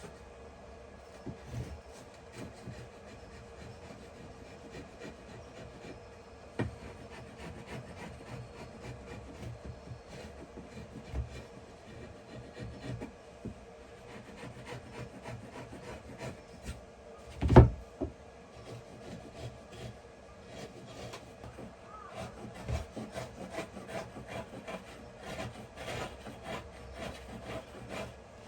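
Pieces of wood being handled and rubbed by hand, with many light clicks and taps and one loud knock a little past halfway.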